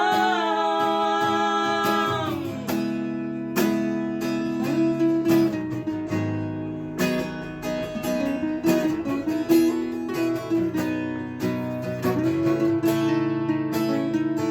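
Acoustic guitar strummed and picked in an instrumental passage of a bard song, after a sung note held for about the first two seconds.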